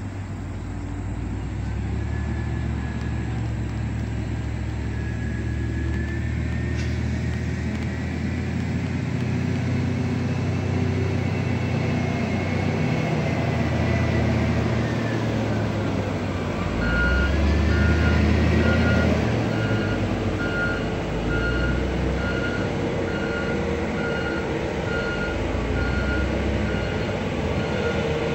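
Diesel dump truck engine running with a low rumble, and a whine that rises and falls through the first half. A little past halfway, its reversing alarm starts beeping steadily, about once a second.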